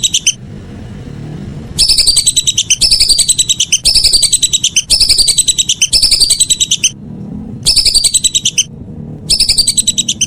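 Whistling duck (belibis) calls from a lure recording: loud, high whistled phrases that slide downward, repeated in quick succession, with short breaks about a second in, around seven seconds in and again near nine seconds.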